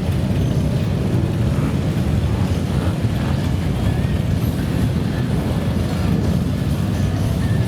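Many motorcycle engines running together in a steady low rumble.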